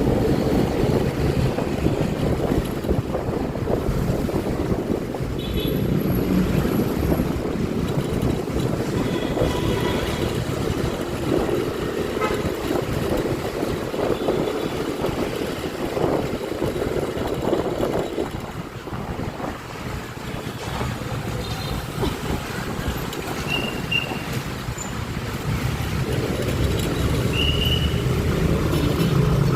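Riding noise on a Honda Click 125i scooter in city traffic: a steady low rumble of wind and road noise with the engine running underneath. A few short horn toots sound in the last few seconds.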